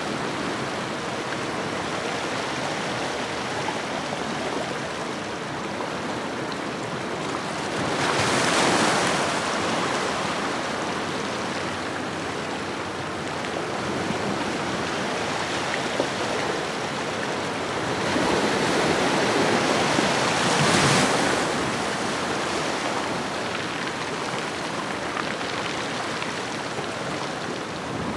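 Ocean waves washing onto a shore: a steady hiss of surf with two bigger waves breaking, about eight seconds in and again about eighteen to twenty-one seconds in.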